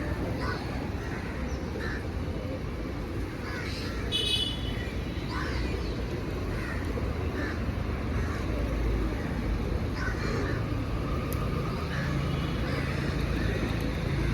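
Birds calling in short, scattered calls over a steady low rumble, with one brighter, harsher call about four seconds in.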